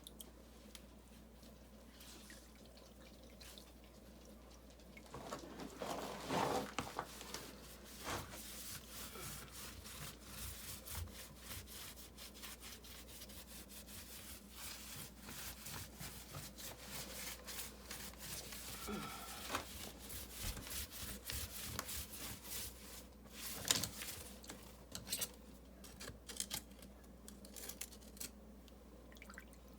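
Wet rag rubbing and wiping mortar off river rocks, with splashy watery sounds and scattered small clicks of stone, and one sharper knock about three-quarters of the way through.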